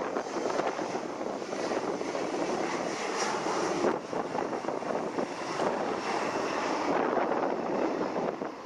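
Aircraft engines giving a steady, even rushing roar.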